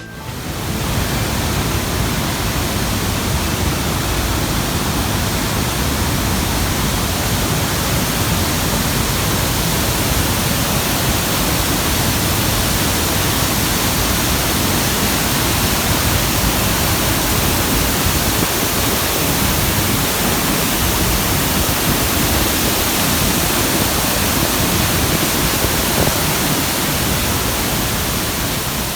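Iguazu Falls' waterfall roar heard up close: a loud, steady rushing of falling water that starts abruptly and eases slightly near the end.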